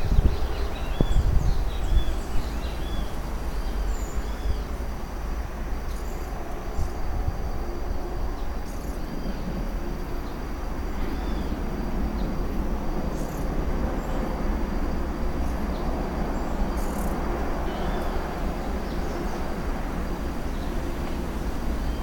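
Small birds chirping in short, quick notes, most of them in the first few seconds, over a steady low rumble and hiss.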